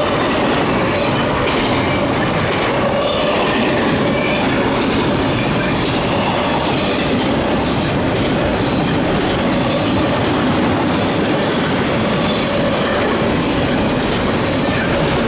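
Double-stack intermodal container cars of a CSX freight train rolling past close by: a loud, steady rumble and clatter of steel wheels on the rails, with a steady squeal running under it.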